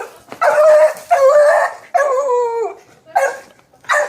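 A frightened dog crying out: three drawn-out, whining howls that drop in pitch at their ends, followed by two short yelps near the end.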